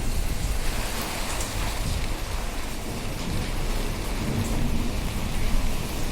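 Heavy rain pouring down in an extreme storm: a dense, steady hiss with a deep rumble underneath. It cuts off suddenly at the end.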